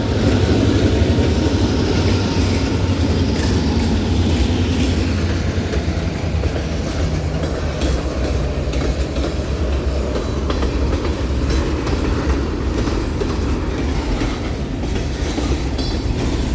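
A train led by two diesel locomotives passing close by: a steady rumble of engines and wheels, with wheels clicking over rail joints. The low engine hum is strongest in the first half and eases later in the pass.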